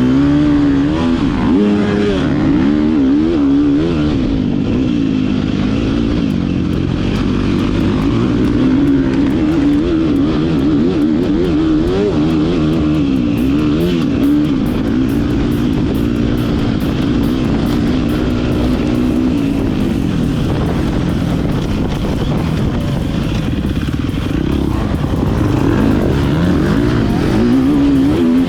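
Motocross bike engine revving hard and easing off again and again, its pitch rising and falling with the throttle.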